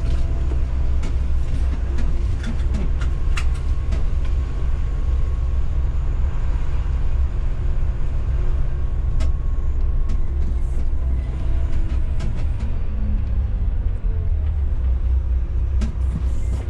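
Intercity coach on the move: a steady low engine and road rumble with scattered sharp clicks and rattles.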